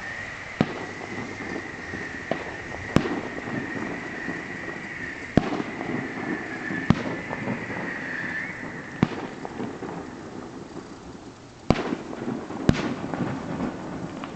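Aerial fireworks bursting at a distance: sharp bangs every second or two, the loudest about three, seven, twelve and thirteen seconds in, over a continuous rumble of echoes thrown back by the surrounding hills.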